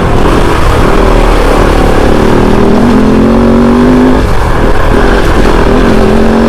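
Kove 450 Rally's single-cylinder engine running under way, its pitch climbing steadily as it pulls for about a second and a half around three seconds in, then dropping off and climbing again near the end.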